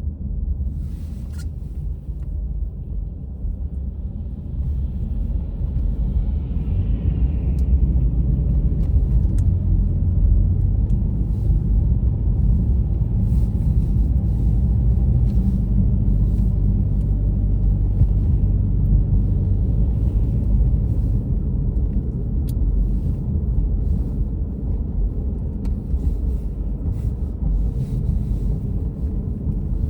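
Low, steady rumble of a car driving, engine and tyre noise heard from inside the cabin, growing louder about four seconds in as it picks up speed.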